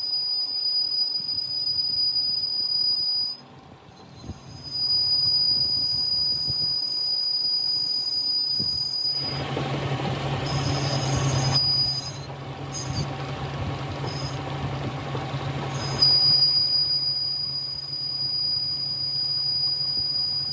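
A steady, high-pitched mechanical squeal that stops for a moment about three seconds in, then resumes. From about nine to sixteen seconds a louder rushing noise with a low hum runs under it.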